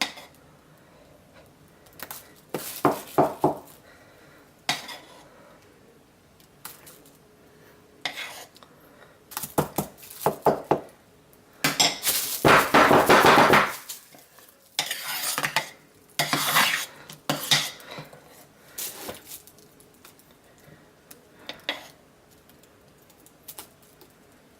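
A utensil scraping and knocking against the slow cooker's pot while thick melted curd soap is scooped out into the mold: scattered bursts of clatter, with one longer, louder stretch of scraping about twelve seconds in.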